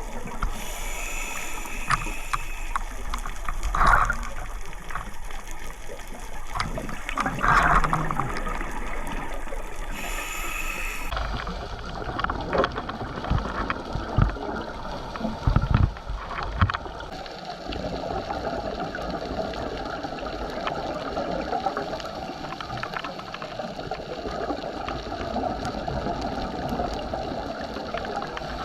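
Underwater sound picked up by a diver's camera: steady water noise with gurgling, and louder bursts of scuba exhaust bubbles a few seconds apart in the first part. The water sound changes abruptly twice where clips are cut together.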